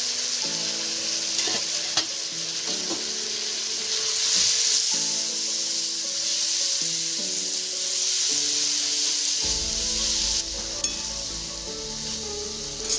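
Pumpkin, potato and drumstick pieces sizzling in hot oil in a kadai while a metal spatula stirs and turns them, with a few sharp clinks of the spatula on the pan. The steady sizzle marks the dry frying stage, before any water is added, and eases slightly near the end.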